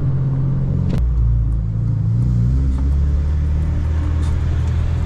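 Inside the cabin of an 8th-gen Honda Civic Si on the move, its four-cylinder with full bolt-ons running loud. There is a click about a second in, after which the engine note drops and then climbs again.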